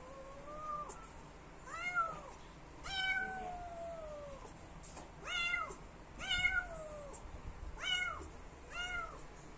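A kitten meowing over and over, about seven calls a second or so apart, some short and some drawn out and falling in pitch: it is meowing to be let through a door.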